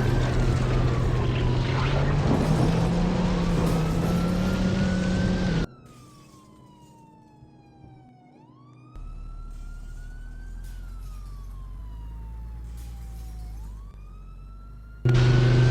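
A siren wailing, its pitch rising and falling slowly over a few seconds at a time, heard over loud steady vehicle and road noise. The vehicle noise drops away about halfway through, leaving the siren much quieter, and comes back near the end.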